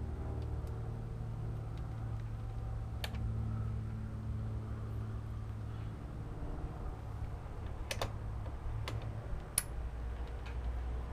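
A handful of sharp, isolated metal clicks from a hand tool working the exhaust clamp bolts on a silencer, one about three seconds in and several close together near the end, over a steady low hum.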